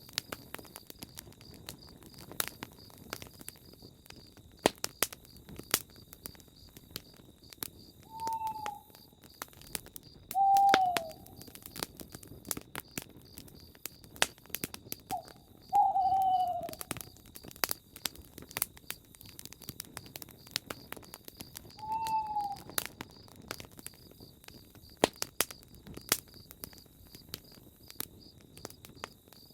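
Campfire crackling with frequent sharp pops, while a bird gives five or six short, falling calls a few seconds apart. A steady high-pitched drone runs behind them.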